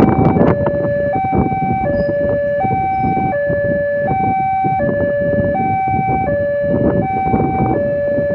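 Railway level-crossing warning alarm sounding a two-tone high–low signal, switching pitch about every three-quarters of a second, which means the crossing is closing for a train. Road traffic is heard under it.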